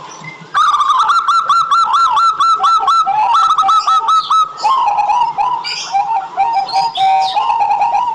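Local perkutut (zebra dove) cooing. It gives a quick run of short, evenly repeated notes, about five a second, starting half a second in, then lower, wavering coos from about five seconds on.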